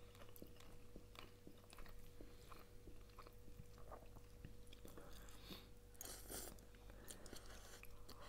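Faint close-up chewing of soft glass noodles with chicken and vegetables: a scatter of small wet mouth clicks, with a brief hiss about six seconds in.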